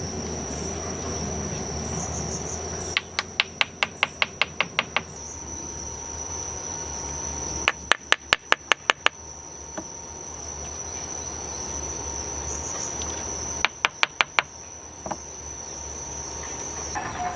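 Three quick runs of sharp knocks, about five or six a second, with the middle run loudest, over a steady high-pitched insect drone.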